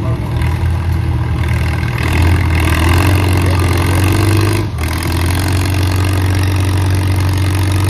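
Antique farm tractor engine running, louder from about two seconds in, with a brief sharp drop near five seconds before it carries on steadily.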